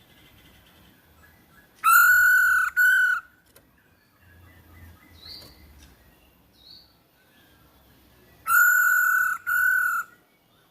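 Poksay hongkong giving loud two-note calls, each note a rich, slightly arched call with strong overtones; the pair comes twice, about six seconds apart, with a few faint higher chirps between them.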